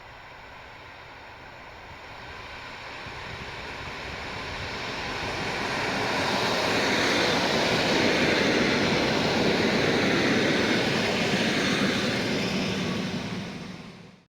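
A train approaching, its rumble growing steadily louder for about seven seconds, then running past loudly and evenly before cutting off suddenly at the end.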